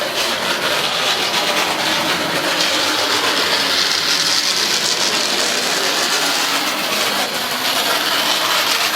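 Model Class 37 locomotive running noisily around the track, a steady high-pitched whirr that swells louder through the middle and eases off again as it passes. The owner supposes it just needs a good run.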